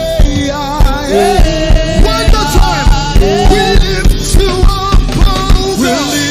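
Gospel praise music from a band: a singer's voice over keyboards and a steady drum beat of about two beats a second.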